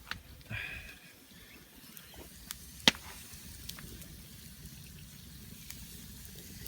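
Wood fire crackling, with scattered sharp pops (the loudest about three seconds in), over a faint steady outdoor background. A brief high-pitched call sounds about half a second in.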